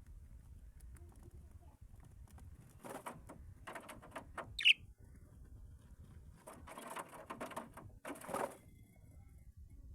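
Caged birds: two spells of rustling and scratching, with one short, sharp chirp about halfway through.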